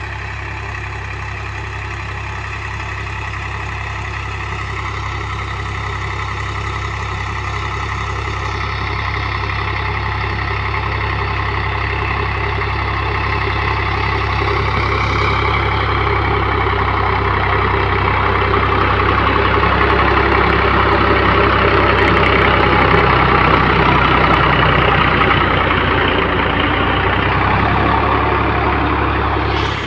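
Indo Farm 3035 DI tractor's diesel engine running steadily while pulling a plough, growing gradually louder over the first two-thirds.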